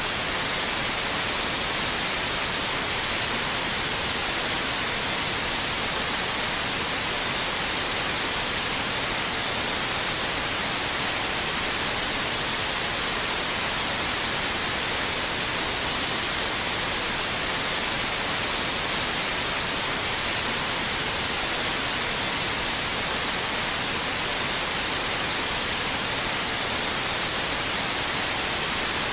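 Steady synthetic white noise: an even, unchanging hiss, brightest in the treble, with no change in level.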